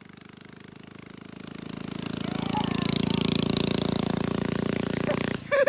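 Mini bike's small engine running under load, growing louder over a couple of seconds as it comes closer, then holding steady before cutting off abruptly near the end.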